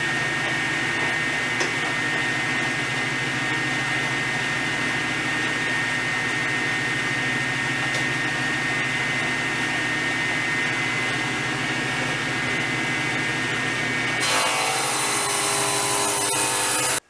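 Power saw running steadily while cutting a 15-degree bevel along a board. About 14 seconds in, the sound turns louder and harsher as the blade bites into the wood, then stops suddenly.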